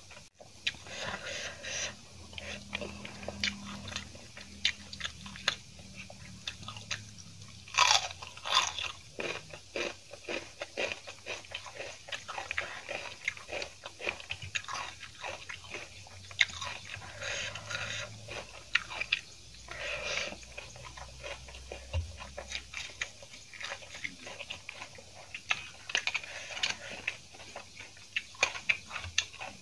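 Close-miked eating: a person chewing and biting mouthfuls of hand-eaten rice and food, with irregular wet mouth clicks and crunches. The loudest crunches come about eight seconds in.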